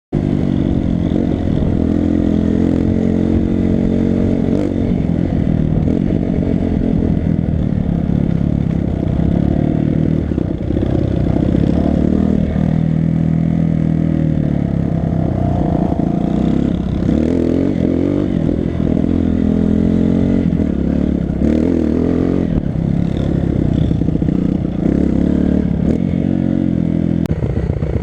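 Four-stroke single-cylinder dirt bike engine being ridden on a trail, its pitch rising and falling as the throttle is worked through the gears, with knocks and rattles from the bike over rough ground.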